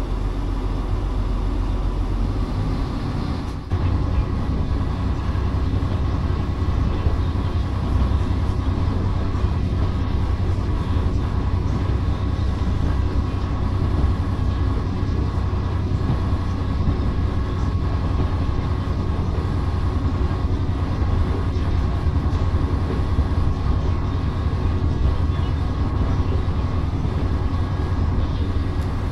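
Nagaragawa Railway diesel railcar running, heard from inside the carriage: a steady low engine drone and wheel rumble with a faint steady whine. The sound dips briefly about three and a half seconds in, then carries on slightly louder.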